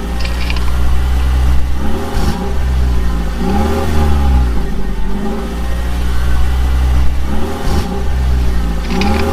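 Engine sound effect for a cartoon construction vehicle: a steady low drone whose pitch swells up and falls back every few seconds, repeating like a loop.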